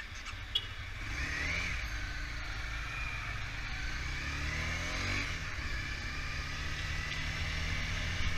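Car engine running with road rumble, its note rising and falling a few times. There is a sharp click about half a second in.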